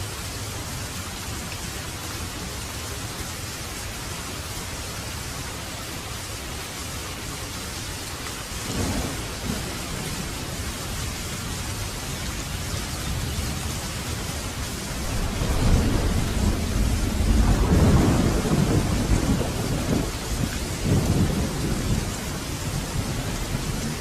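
Heavy rain falling steadily, with a short roll of thunder about nine seconds in and a louder, longer rumble of thunder from about fifteen seconds in that fades out a few seconds before the end.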